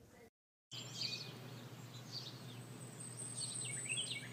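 After a brief silent gap, small birds chirp intermittently in the background over a steady low hum and ambient noise.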